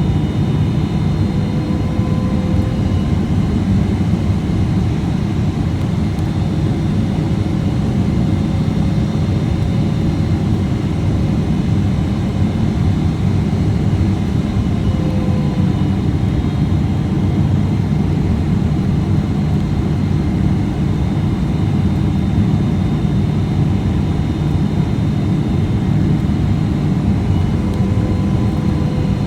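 Steady rush of airflow and jet engine noise inside the cabin of a Boeing 777-300ER in flight, with its GE90 engines running. The noise is heaviest in the low end, with faint steady high tones and a faint wavering hum above it.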